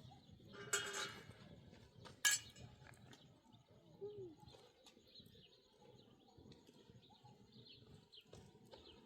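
Outdoor rural ambience with faint bird chirping. A short animal call comes about a second in, a sharp clink a little after two seconds, and a brief rising-and-falling call around four seconds.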